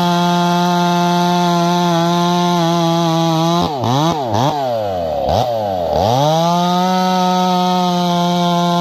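Two-stroke chainsaw running at high revs. About halfway through, the engine speed drops steeply and climbs back several times, then it settles again at a steady high pitch.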